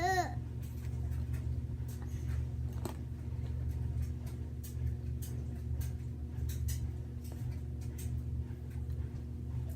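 Faint, irregular small clicks and ticks from homemade cloud slime being handled and squished, over a steady low hum. A brief falling voice-like sound right at the start.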